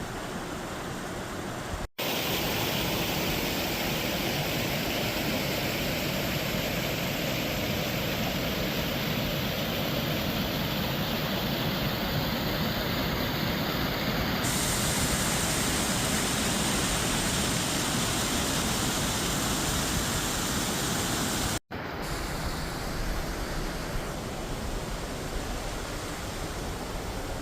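Waterfall: a steady rush of falling water, cut off abruptly for an instant about two seconds in and again near the end, louder in the stretch between the two cuts.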